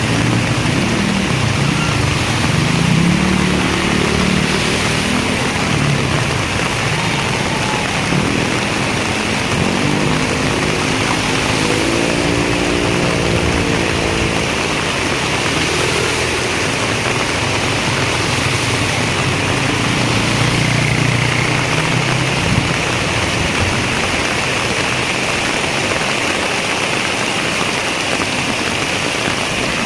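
Heavy rain falling steadily, with the drone of a motor engine underneath whose pitch rises and falls, fading out about twenty seconds in.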